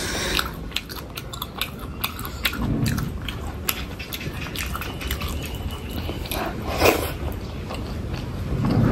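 Close-miked eating: chewing and biting food, with many sharp, wet mouth clicks and smacks.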